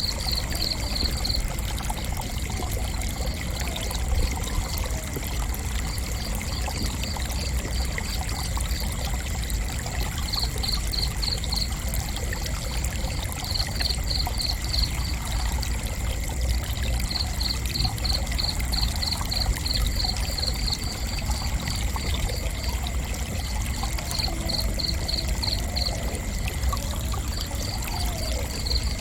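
Crickets chirping: runs of rapid high chirps, about five a second, each run lasting one to three seconds with short pauses between, over a steady high insect trill and a low rumble.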